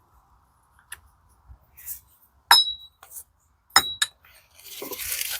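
Metal gearbox parts clinking on the bench: a few light clicks, then two sharp metal-on-metal strikes that each ring briefly, followed by a short scraping rustle near the end.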